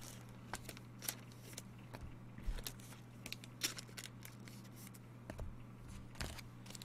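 Faint light clicks and rustles of trading cards being handled and slid against each other, over a steady low electrical hum.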